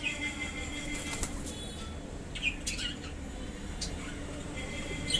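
A bulbul flapping its wings a few times, with brief chirps about halfway through.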